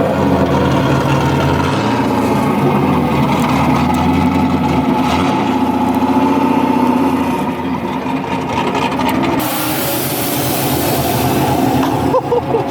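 Car engine running steadily at low revs. A hiss joins in for a couple of seconds near the end.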